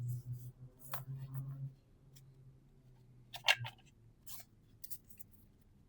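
Trading cards being handled and flipped through, giving a few short, crisp card-on-card slides and snaps. The loudest comes a little past halfway. A low hum runs through the first two seconds.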